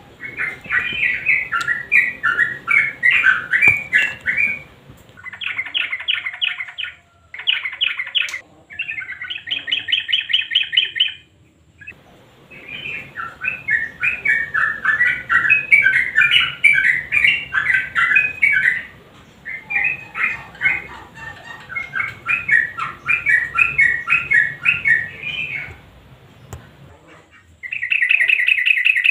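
Yellow-vented bulbul (trucukan) singing: long runs of bubbly, chattering notes broken several times by short, fast rattling trills.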